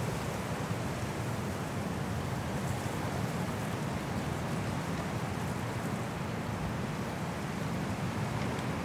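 Strong wind blowing through forest trees in a snowstorm, a steady rushing with slight swells and no gusts standing out.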